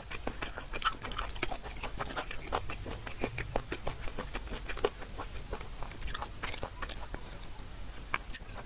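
A person chewing and smacking on braised beef bone, with many small, sharp wet mouth clicks.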